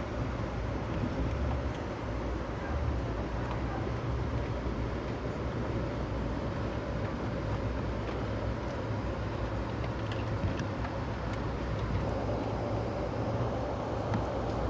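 Steady rumble of a moving passenger train car, with a hum that grows stronger near the end and a few faint clicks.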